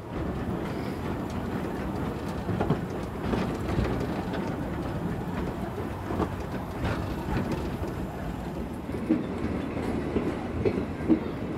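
Narrow-gauge passenger train running along the line, heard from on board: a steady rumble of the coaches with irregular clatter and sharp knocks from the wheels over the rail joints.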